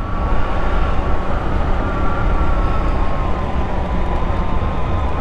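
A 150cc GY6 four-stroke single-cylinder scooter running steadily under way, with a rumble of wind on the microphone. A thin whine runs through it and drifts slightly lower in pitch in the second half.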